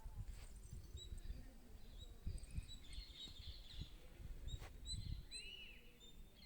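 Small birds chirping faintly, with short repeated high chirps and one arching call about five seconds in, over a low rumble of background noise.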